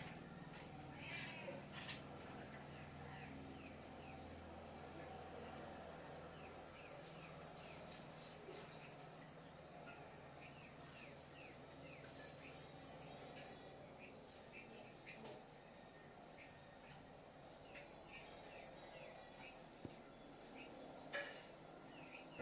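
A bird repeating a short rising call about every two seconds, with softer chirps in between, over a steady high-pitched drone.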